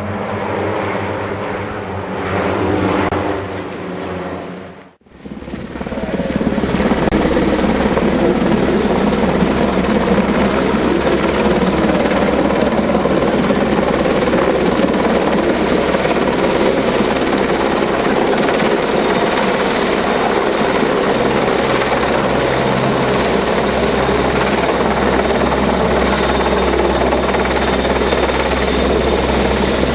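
Helicopter running loud and close, with a steady rotor beat under its engine noise. About five seconds in, the sound drops out for a moment after a steady pitched engine tone, then the helicopter noise comes in full.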